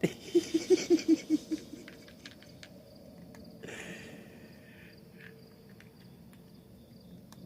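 A person laughing in a short run of quick, evenly spaced bursts, about five a second. After it comes a scatter of faint sharp clicks, typical of a cat crunching dry food, over a faint steady chirring of crickets.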